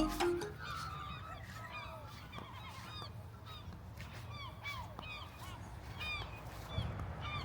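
A flock of birds calling, many short squawking calls overlapping several times a second, over a steady low rumble.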